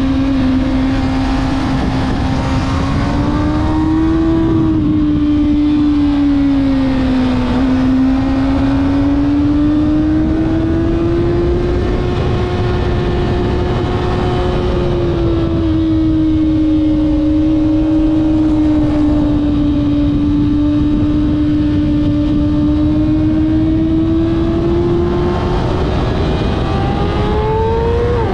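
Kawasaki ZX-6R inline-four engine running hard at high revs under a rider on track. The pitch rises and falls gently as the throttle changes through corners, then climbs steadily near the end.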